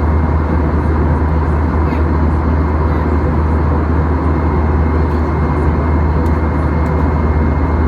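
Steady cabin noise inside a Boeing 737-800: a constant low hum with a rushing noise over it and a faint, thin steady whine.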